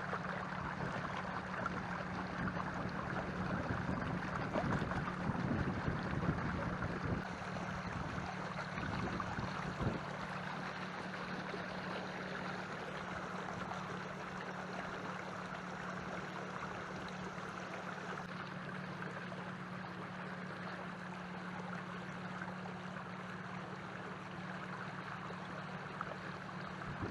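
Water rushing and lapping along the hull of a canoe under way, over a steady low hum, with a few small splashes and knocks in the first third.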